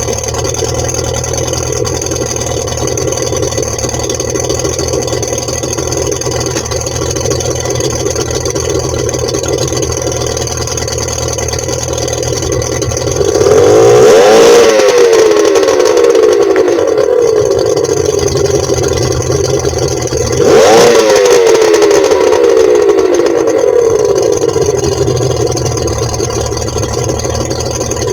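Mercury 150 XR2 Black Max V6 two-stroke outboard with a ported exhaust, idling steadily. About halfway through it is revved hard twice, a few seconds apart, each time rising sharply in pitch and then falling back toward idle.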